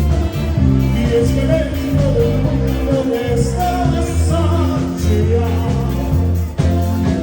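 A live song: a singer over a band, with a strong, steady bass line.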